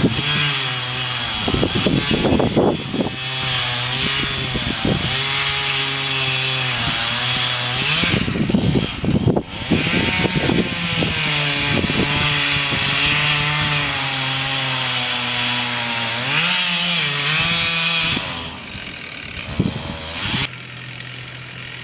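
Chainsaw cutting into a tree, the engine running steadily under load with the hiss of the chain in the wood. It dips briefly a few times, and near the end the engine falls back toward idle.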